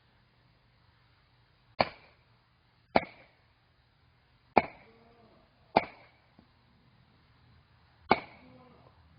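Firewood being split: five sharp chopping strikes at uneven intervals, each followed by a short rattle, the last one near the end.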